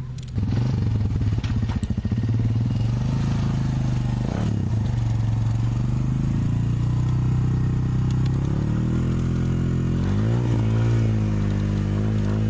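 Off-road truck engine running hard at steady revs, starting suddenly about half a second in; near the end the revs rise and fall repeatedly.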